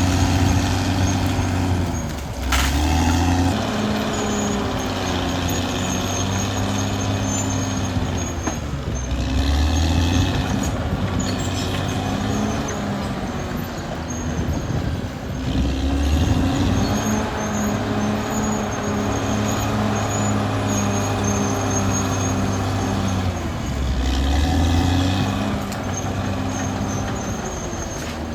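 Caterpillar D6R XL bulldozer's diesel engine working under load, its note dropping and picking up again several times as the load changes. There is a single sharp knock about two and a half seconds in.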